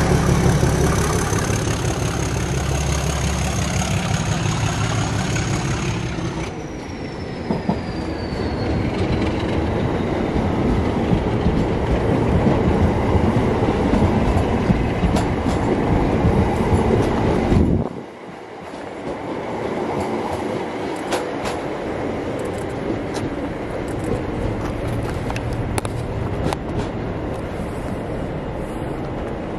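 Class 37 diesel locomotive passing close by with its engine running and a high whistle. About six seconds in, the engine sound drops away and the whistle falls in pitch as the locomotive moves off, leaving the wheels of the hauled electric unit clattering over the rail joints. About eighteen seconds in, the sound cuts abruptly to a quieter train running in, with scattered clicks.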